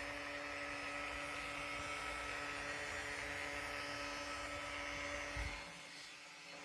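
Small toy-like robot vacuum running as it turns in circles: a steady motor hum with a whine above it. The sound drops away about five and a half seconds in.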